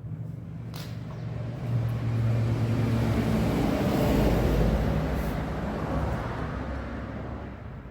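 A motor vehicle engine running with a steady low hum, swelling sharply about two seconds in, staying loud for a few seconds, then fading away gradually.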